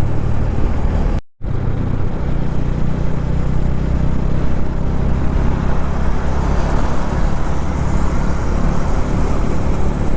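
Motorcycle running steadily at cruising speed on a highway, with engine and road noise. The sound cuts out completely for a moment about a second in.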